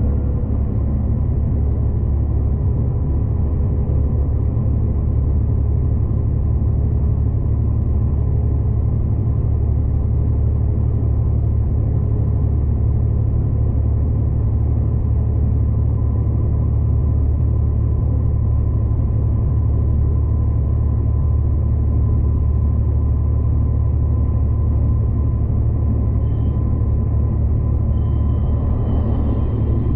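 V/Line passenger train running steadily, heard from inside the carriage: a constant low rumble of wheels and running gear with a faint steady hum.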